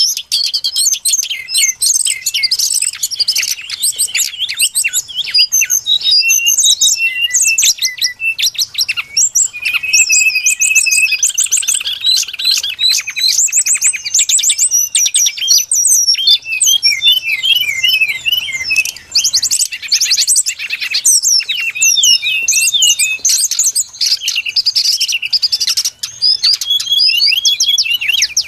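Brown-chested jungle flycatcher song played as a bird lure call: a continuous, dense run of overlapping high chirps and short whistled sweeps.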